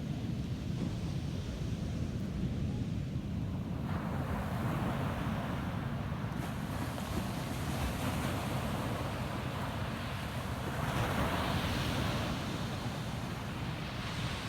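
Ocean surf breaking and washing on a beach, with wind rumbling on the microphone. A wave washes in about four seconds in and another, louder one about eleven seconds in.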